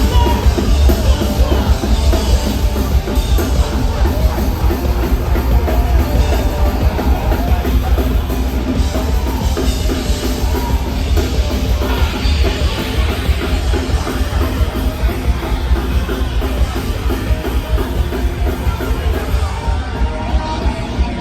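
Hardcore punk band playing live: drum kit with loud electric guitars and bass, played continuously.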